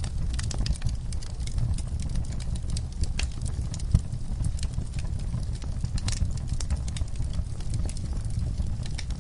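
Wood fire burning in a fireplace, crackling: irregular sharp pops and snaps over a steady low rumble, with one louder pop about four seconds in.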